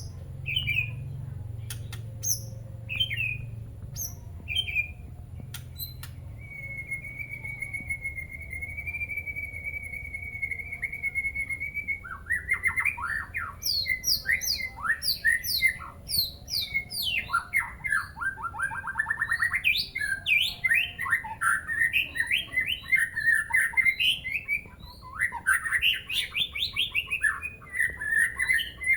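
White-rumped shama (murai batu) calling and singing: a few short chip calls about a second apart, then one long steady whistle held for several seconds, then a fast, varied song of trills and rapid notes through the second half.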